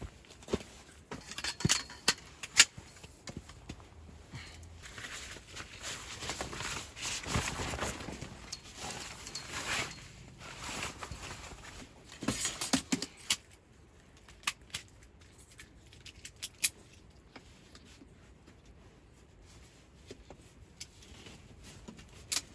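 Camp gear being handled: rustling with scattered small clicks and knocks, busiest in the first half and quieter from about two-thirds of the way in.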